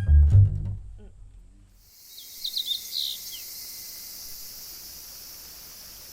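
An orchestral chord with deep bass notes dies away, then, after a brief hush, a steady high hiss of outdoor ambience comes in, and a bird gives a quick run of short chirps about a second later.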